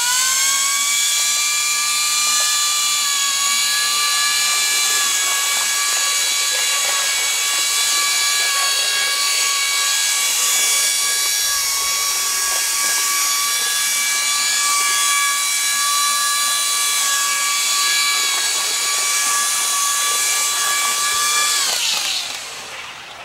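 Small electric fan motor of a fan-propelled HO-scale model locomotive, spinning its propeller: a loud, high whine that rises in pitch as it spins up at the start, holds steady for about twenty seconds, then winds down and stops near the end.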